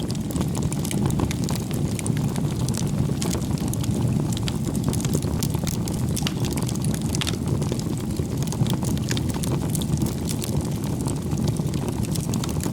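Wood campfire burning: a steady low rush of flames with many small, sharp crackles and pops from the burning logs scattered throughout.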